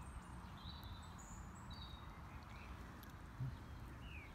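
Faint outdoor ambience with birds chirping in the distance: scattered short high chirps and whistles over a low steady rumble, with a soft low bump about three and a half seconds in.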